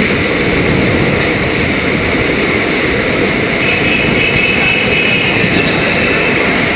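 Indian Railways passenger train running through a station, heard from an open carriage door: a loud, steady rush of wheel and track noise. A faint high whine comes in about halfway through.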